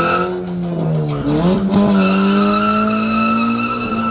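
A car engine held at high revs while its tires squeal, spinning on the pavement. The revs dip briefly about a second in, then climb back and hold steady.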